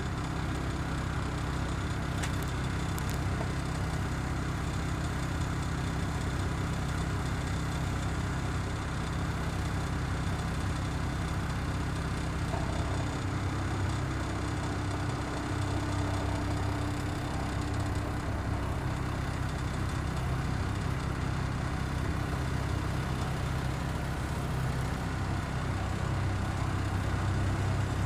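Dump truck engine running steadily, a low, even drone.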